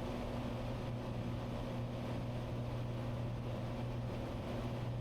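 Cessna 182 Skylane's piston engine and propeller droning steadily in the cabin on final approach, a constant low hum with no change in pitch.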